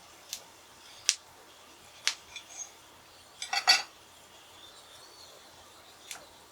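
Sharp clinks of utensils or chopsticks against dishes while eating: single clinks a few times, with a quick run of three or four just past the middle.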